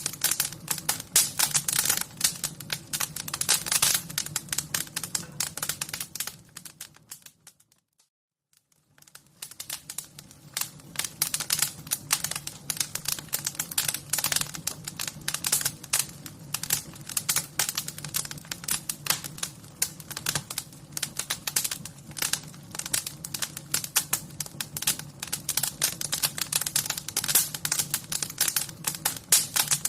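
Fire crackling: a dense, irregular run of sharp snaps and pops over a steady low rumble. About seven seconds in it fades away to near silence, then builds back up about two seconds later and carries on.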